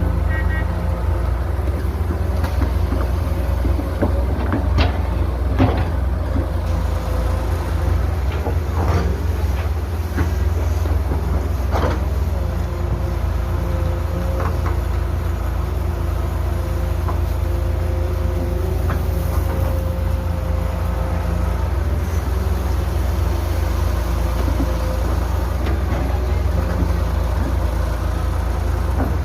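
Heavy diesel construction machinery running steadily with a deep rumble, broken by a few sharp metallic knocks in the first half.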